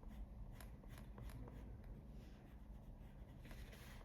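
Colored pencil scratching on paper in a run of faint, short flicking strokes.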